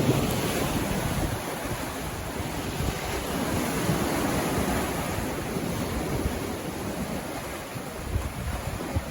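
Sea waves breaking and washing up on a beach, surging and easing over a few seconds, with wind rumbling on the microphone.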